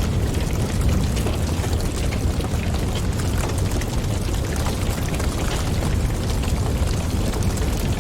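Wood fire crackling and popping over a steady low rumble of flames and draught, with many small sharp pops throughout.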